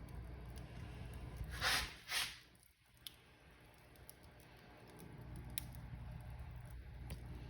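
Wood fire burning in a fireplace: a steady low rumble with scattered crackles and pops. About two seconds in come two short hissing flares, after which the rumble briefly drops away and then builds back.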